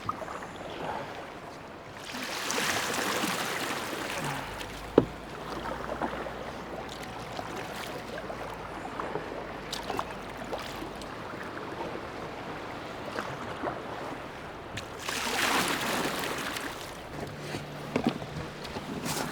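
Water sloshing and splashing around a kayak on the open ocean, with two longer swells of splashing and a single sharp knock about five seconds in.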